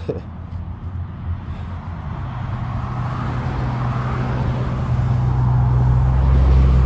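A motor vehicle's engine hum growing steadily louder as it approaches, loudest near the end.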